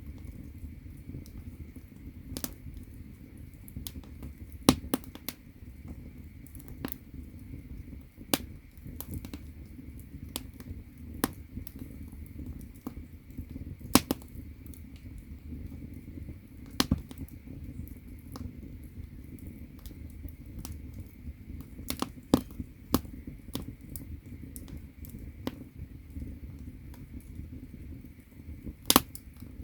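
Firewood burning in an agungi, the stoked firebox of a Korean ondol floor-heating system: irregular crackling and sharp pops over a low, steady rumble of the flames, with a handful of loud snaps standing out.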